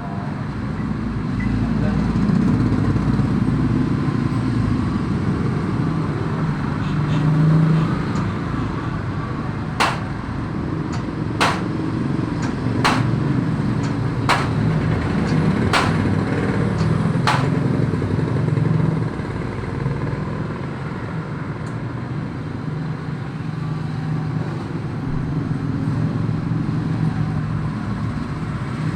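Steady motor-vehicle engine rumble, with six sharp knocks about a second and a half apart midway through.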